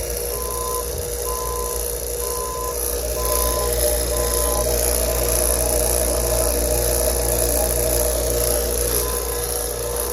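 HVAC vacuum pump running steadily while evacuating a system's refrigerant lines. A high beep repeats about once a second for the first few seconds and sounds once more near the end.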